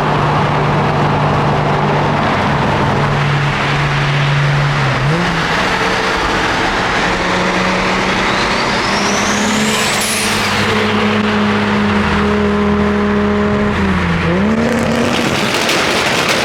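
A car engine running steadily under way, its pitch stepping down and back up at gear changes about five seconds in and again near the end, with a thin high whistle rising for a few seconds in the middle.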